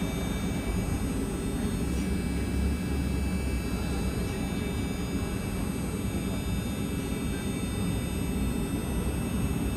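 Steady cabin noise of a moving vehicle: a continuous low rumble with faint steady high-pitched whine tones over it.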